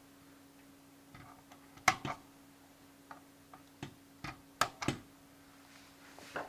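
Irregular sharp clicks and taps of small hard objects being handled, about eight in a few seconds, with a faint steady hum underneath.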